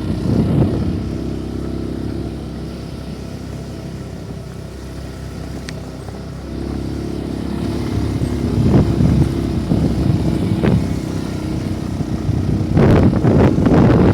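A motor vehicle engine running steadily, with louder rough rumbling bursts about a second in, again around nine to eleven seconds in, and near the end.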